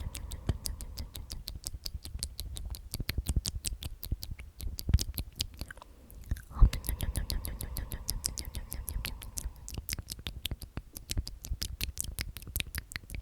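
Whispered 'omnomnom' repeated over and over with rapid wet mouth clicks and lip smacks, a dense run of small clicks throughout.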